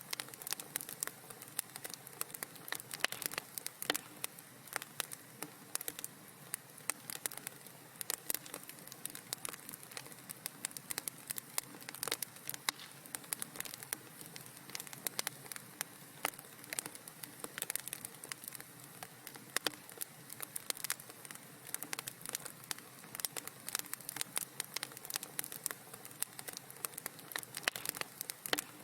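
Wood fire crackling in a fireplace: dense, irregular small pops and snaps over a soft steady hiss.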